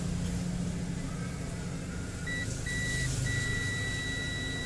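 Multimeter continuity beeper: two short beeps about two seconds in, then one long steady beep. The continuous tone signals a short on the motherboard's supply line, traced to one of its capacitors.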